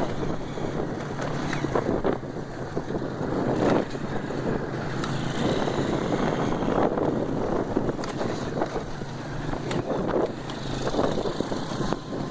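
Motorcycle engine running steadily, with wind buffeting the microphone in gusts.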